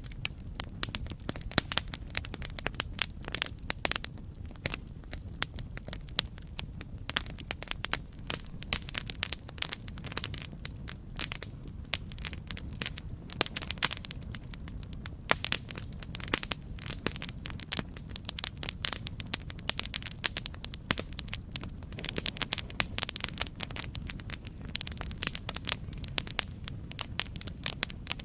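Campfire crackling: dense, irregular pops and snaps from burning wood over a steady low rumble of the flames.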